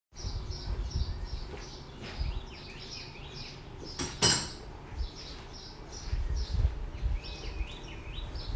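A songbird singing repeated short phrases of chirps, with one sharp clink about four seconds in and low rumbling underneath.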